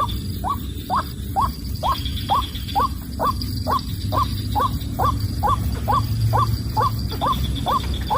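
White-breasted waterhen (ruak-ruak) calling a long, even series of hollow 'kook' notes, about two a second, the monotonous call used to draw another waterhen to the snare. A steady high insect drone runs underneath.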